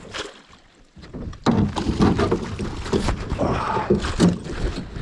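A large northern pike being landed into a small boat: irregular thrashing, splashing and knocking against the hull. It starts suddenly about a second and a half in and keeps on.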